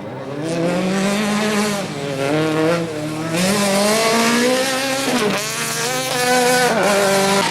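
Rally car engine accelerating hard. Its pitch climbs and drops back several times as it shifts gear, with tyre and road noise rising about three seconds in.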